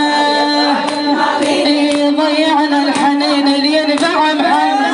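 A woman's voice chanting a Shia mourning lament (fazzaʿiyya) in a wavering melody, with long held notes.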